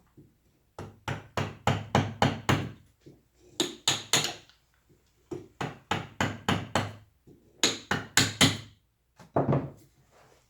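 Mallet striking a carving chisel into wood, in quick bursts of two to six sharp knocks with short pauses between them.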